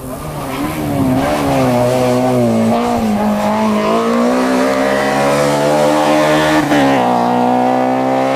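Hill-climb rally car engine revving hard under acceleration, its pitch wavering and then climbing steadily. Near the end the note drops suddenly at an upshift and starts climbing again.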